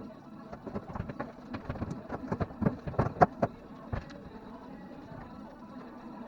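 A run of irregular knocks and clatters, for about four seconds, then only a faint steady hum.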